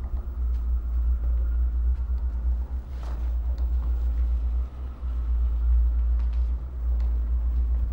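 A deep, steady low rumble, like a brooding drone, with a few faint clicks over it.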